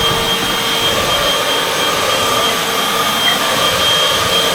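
Vacuum cleaner running steadily as it is pushed back over the floor for another pass: a loud rushing noise with a steady high whine from the motor.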